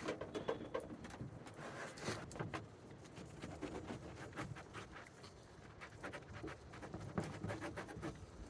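Paper towel rubbing and scrubbing on the plastic shell of a Thule roof box, working Goo Gone into stubborn duct-tape residue, in a string of irregular scratchy strokes.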